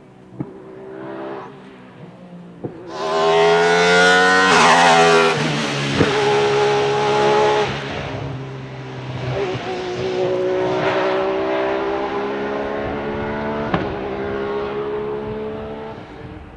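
Alfa Romeo 155 V6 TI DTM race car's V6 engine, at first quieter, then loud from about three seconds in as it is driven hard. Its pitch climbs steeply and drops several times as it revs and changes gear, then holds high and steady through the second half.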